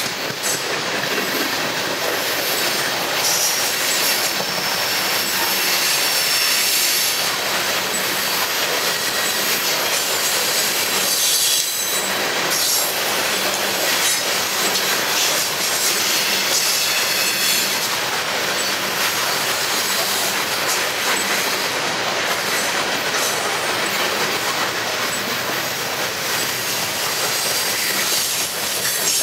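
Steel coal hopper cars of a freight train rolling past: a steady rumble and rattle of steel wheels on the rails, with high wheel squeal at times.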